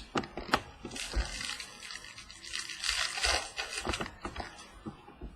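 Trading cards being handled and flicked through by hand: a few crisp card snaps near the start, then about three seconds of continuous rustling and sliding of card stock.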